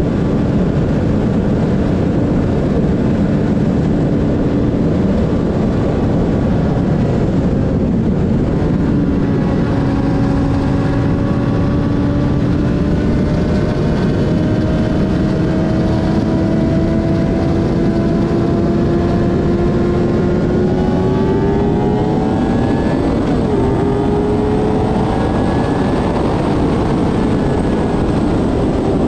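2007 Suzuki GSX-R 600's inline-four engine running at highway speed under heavy wind rush. Its note holds steady, then climbs gradually about two-thirds of the way through as the bike speeds up.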